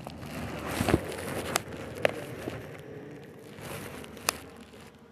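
Rustling and handling noise with a few sharp clicks spread through it, fading toward the end.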